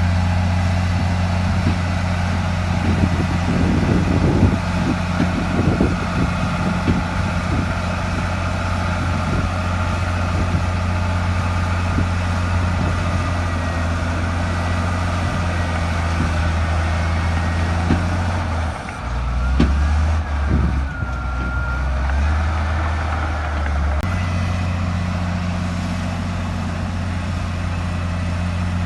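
Bulldozer's heavy diesel engine running steadily, with scattered knocks and clanks over the first several seconds. About two-thirds of the way through, the engine note drops lower for a few seconds and a whine rises and falls, then the engine returns to its earlier steady note.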